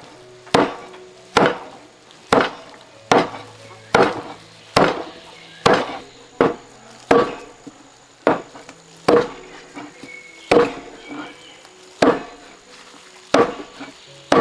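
Slow, steady chopping strikes on wood, a little more than one a second, each a sharp knock.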